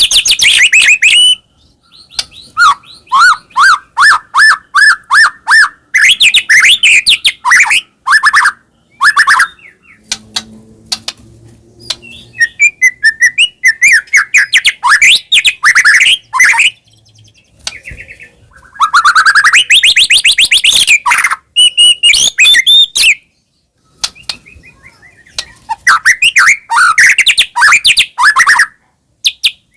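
White-rumped shama (murai batu) in full, lively song: loud rapid phrases of quickly repeated sweeping whistles and chattering notes, broken by brief pauses.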